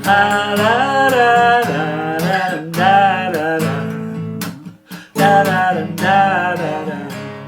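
Strummed acoustic guitar with a man singing a wordless "da da da" melody in three phrases, with a brief break a little before the third.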